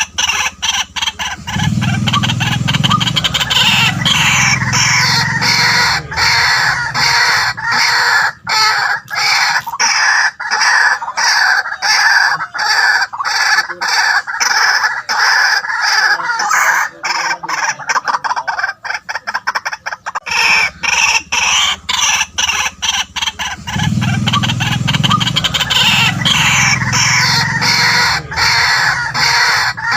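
White-breasted waterhen calling: a loud, unbroken series of harsh, rapidly repeated croaking notes, with a deeper grunting part about two seconds in that comes back near the end. This is the call used as a decoy to lure waterhens.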